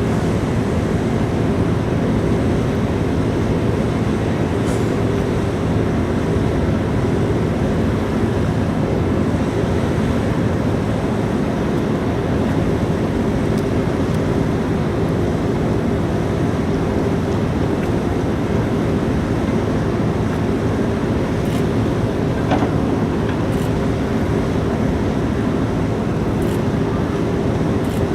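Large car ferry's engines and machinery running with a steady low rumble and hum that holds even in level.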